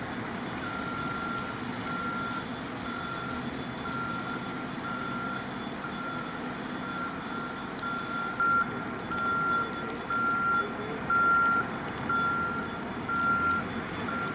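A truck's reversing alarm beeping at an even pace over the hum of its engine. The beeps start about a second in and grow louder in the second half.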